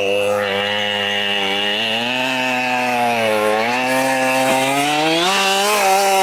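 Husqvarna 572 XP two-stroke chainsaw running under load while cutting a dead oak trunk. Its engine pitch wavers, dips about three seconds in, then climbs and holds higher near the end.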